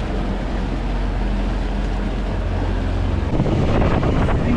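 Honda four-stroke outboard motor driving a boat, with wind rushing over the microphone; the engine gets louder about three seconds in.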